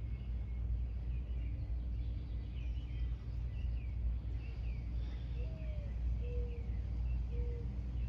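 Small birds chirping repeatedly, short quick calls, with a few lower whistled notes in the second half, over a steady low background rumble.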